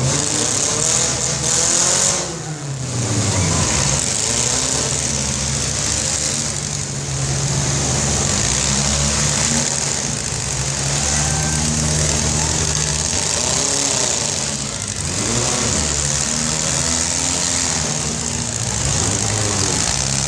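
Demolition derby car engines running in the arena, revving up and down with the pitch rising and falling about two seconds in and again about fifteen seconds in.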